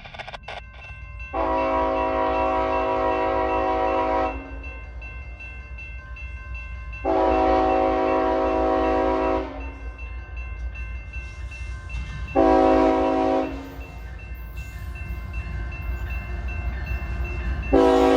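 Diesel locomotive air horn on an approaching CSX double-stack intermodal train sounding the grade-crossing signal: two long blasts, a short one, then a final long blast starting near the end. A steady low rumble runs underneath.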